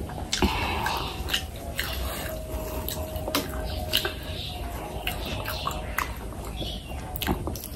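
Close-miked wet chewing and lip smacking on a mouthful of oily fish curry, a steady run of short, sharp, moist clicks.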